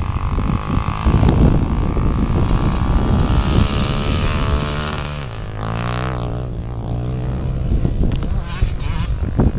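Off-road racing engines running at high revs. About halfway through, one engine's pitch drops steeply as it passes, then it runs on at a steadier, lower note.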